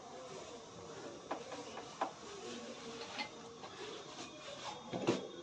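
Scattered clicks and knocks of hand tools and metal parts being handled during washing machine drum reassembly, four or five separate strikes with a louder knock near the end.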